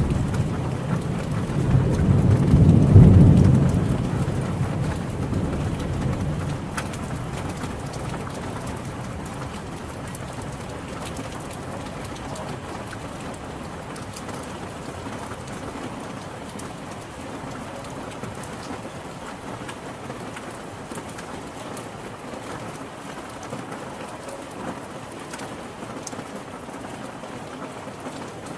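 Steady rain falling, with a low roll of thunder that swells to a peak about three seconds in and dies away over the next few seconds, leaving the even hiss of the rain.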